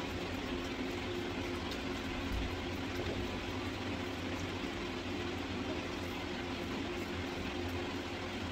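Chicken mince cooking on high heat in a frying pan, the water it has let out bubbling and sizzling steadily while a silicone spatula stirs it. A steady low hum runs underneath.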